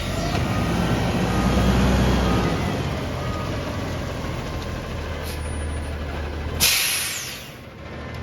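Garbage truck's diesel engine running, then a sudden loud hiss of air about six and a half seconds in that fades over a second, typical of the truck's air brakes releasing.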